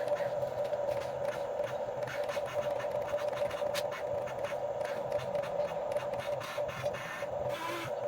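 Huina 1550 radio-controlled toy excavator's electric motors and gears whining steadily, with scattered clicks and scraping.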